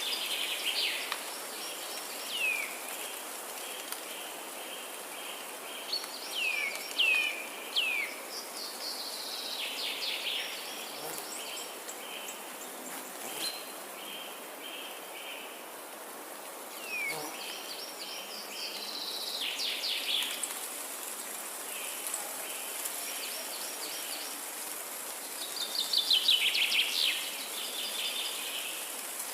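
Forest birds singing: bursts of descending whistled notes and fast trills, several times, the loudest phrase near the end, over a steady high hiss.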